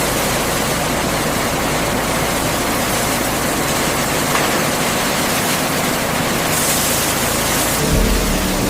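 Steady, even rushing noise of industrial processing machinery running, with a brighter hiss for about a second near the end and a deeper hum coming in just before the end.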